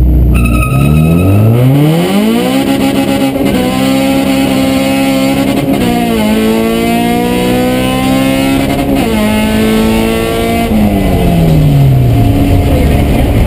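Honda Civic four-cylinder engine at full throttle, heard from inside the cabin: the revs climb steeply, dip briefly three times as it shifts up, then fall away near the end as the throttle is lifted.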